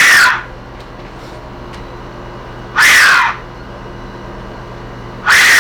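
Death whistle blown in three loud, shrieking blasts, each falling in pitch like a scream: one at the start, one about three seconds in, and one near the end.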